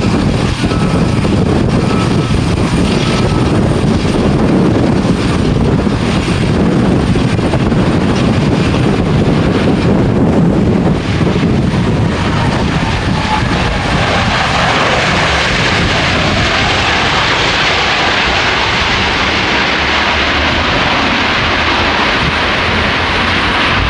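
Jet airliner's engines running loud as it passes. The noise starts as a low rumble and turns to a higher hiss about halfway through.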